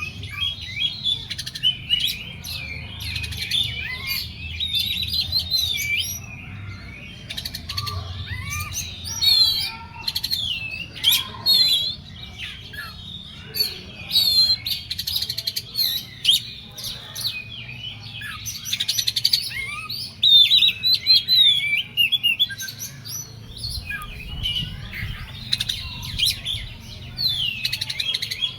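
Oriental magpie-robin (kacer) singing in a rapid, varied stream of whistles, chirps and sharp clicks, with short gaps between phrases. It is in the worked-up 'emosi' state that bird-song keepers prize.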